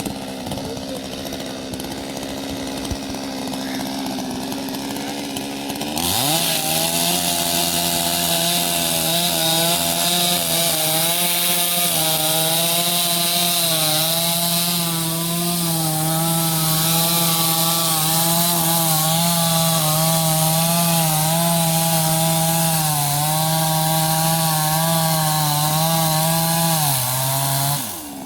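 Two-stroke chainsaw idling, then opened to full throttle about six seconds in and held there, its pitch wavering slightly as it cuts into the tree, before dropping back to idle near the end.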